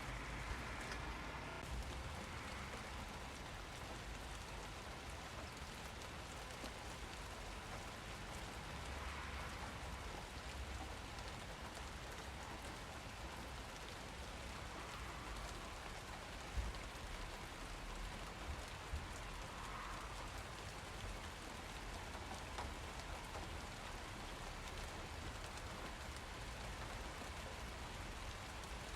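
Steady rain falling and pattering on surfaces, with the occasional louder single drop.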